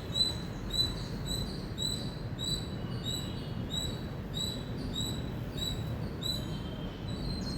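Indian palm squirrel chirping over and over in a steady rhythm, about two short high-pitched chirps a second.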